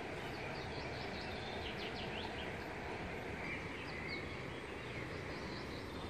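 Small birds chirping in short runs of quick falling notes, about two seconds in and again around four seconds, over a steady background hiss and rumble.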